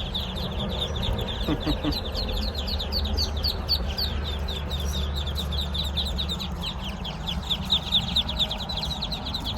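A crowd of newly hatched Muscovy ducklings peeping nonstop, many short, high, downward-sliding peeps overlapping.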